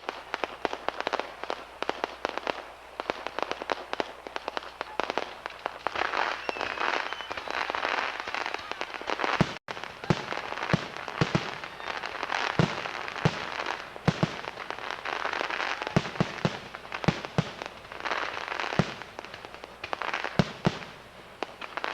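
Fireworks crackling and popping in a dense, rapid barrage, many small reports a second with louder bangs scattered through.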